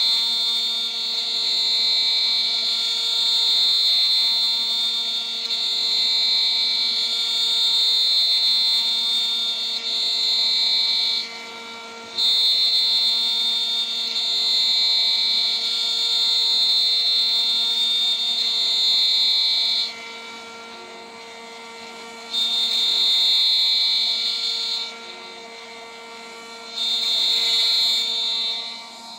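DIY CNC router spindle running a 3 mm three-flute aluminium end mill at about 14,000 rpm, milling with a steady high-pitched cutting whine. The whine drops away four times for a second or two as the cutter comes out of the cut, while the spindle's steady hum carries on.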